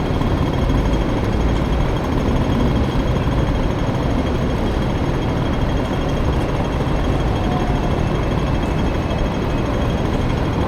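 Small scooter engine from a Honda Dio, swapped into a Honda Motocompo, running steadily while riding, a rapid buzz mixed with road and traffic noise.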